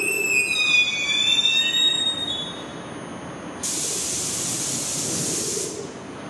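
Korail commuter train squealing as it brakes to a stop, high shrill tones sliding down in pitch and fading over the first two seconds. Then a sudden hiss of compressed air from the train, starting a little past halfway and cutting off after about two seconds.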